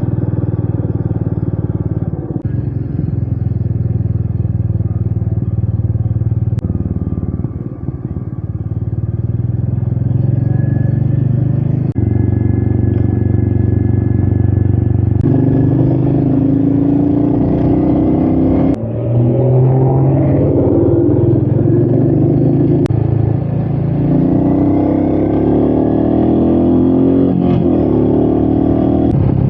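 Royal Enfield Meteor 350's single-cylinder engine running while riding, with pitch and load shifting and a few brief dips. It gets louder and pulls harder from about halfway.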